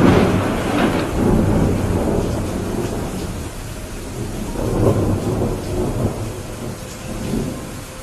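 Thunderclap cracking in suddenly at the start and rumbling on for several seconds, swelling again about five seconds in, over steady heavy rain.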